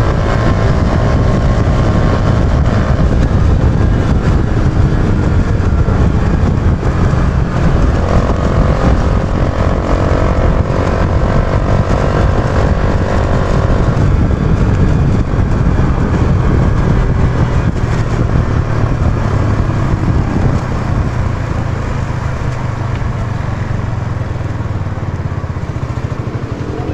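Yamaha YB125Z DX motorcycle's 125 cc single-cylinder engine running under way, with heavy wind rumble on the microphone; the engine's note stands out at the start and again for several seconds in the middle.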